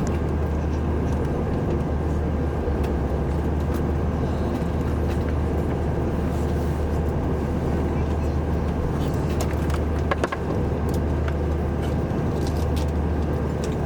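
Steady cabin noise inside an Airbus A340-300 airliner, its four CFM56 engines running with a constant low drone under an even rush of air. A few light clicks come about ten seconds in.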